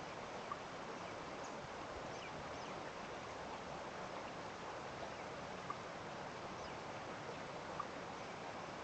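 A steady rushing hiss of outdoor ambience, with faint, brief bird chirps scattered through it and a few short pips near half a second, midway and near the end.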